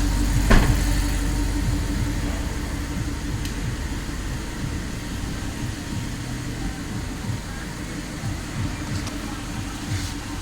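Audi R8 engine idling steadily after an ECU replacement cured its no-crank, no-start fault, with one short sharp sound about half a second in.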